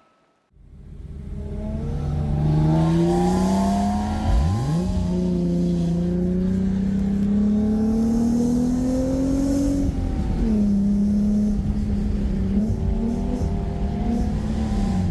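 Car engine, plausibly the 1995 Acura Legend coupe's V6, pulling under way with its pitch climbing steadily for several seconds. The pitch drops about two-thirds of the way in, then the engine runs at a fairly steady speed.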